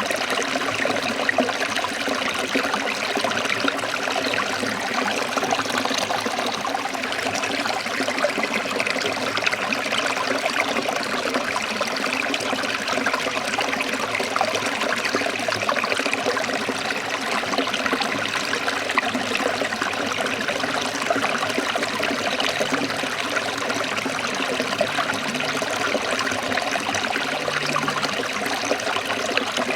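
Forest stream trickling and splashing over rocks: a steady, even rush of water.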